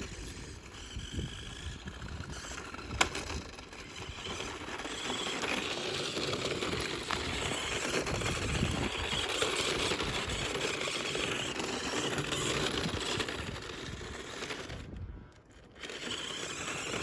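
Remote-control rally car driving over mud and dirt: a rough scraping, crackling noise of its tyres and motor that swells for several seconds in the middle, with a sharp click about three seconds in and a short drop-out near the end.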